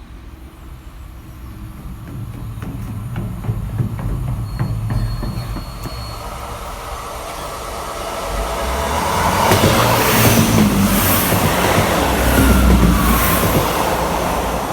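A train running past on the rails, building up over several seconds and loudest in the last few seconds, with the rattle of its wheels passing over the track.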